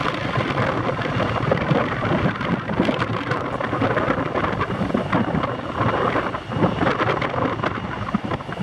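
Jet airliner engines roaring with a rough, crackling rumble that swells and dips.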